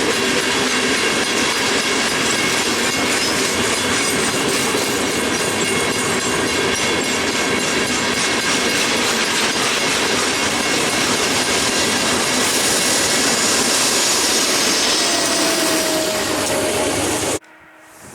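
Freight train cars rolling past at close range: a steady loud clatter of wheels over the rails, with thin squealing tones from the wheels. The sound cuts off abruptly near the end.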